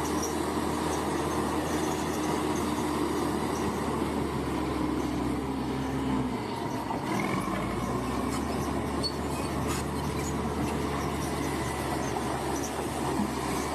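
Large bulldozer's diesel engine running steadily. Its note shifts and drops about six seconds in.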